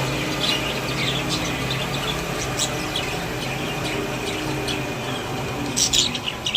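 Pet budgerigars chirping in short, quick chirps, busier and louder near the end, over a steady low hum.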